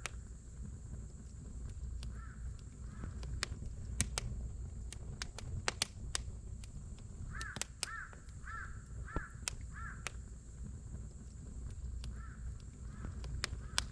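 Wood campfire crackling, with sharp scattered pops over a low rumble of burning. A crow caws in runs of several calls, once near the start and again in the middle and toward the end.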